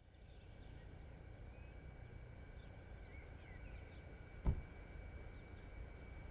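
Faint outdoor background rumble with a few short bird chirps, and a single dull low thump about four and a half seconds in.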